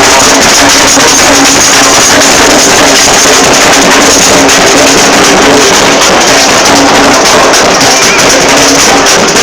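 Street brass band playing with drums, loud and continuous.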